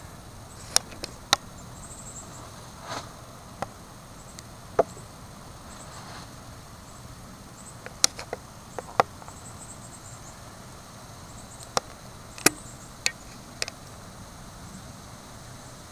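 Irregular sharp clicks and taps, about a dozen and a half scattered through the stretch, over a faint steady outdoor background with faint high chirping.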